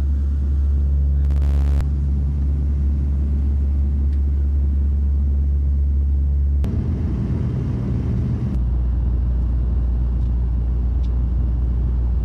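Steady low drone of an aircraft cabin in flight, the engine and propeller hum heard from inside a small airliner; its pitch and tone shift slightly twice in the second half.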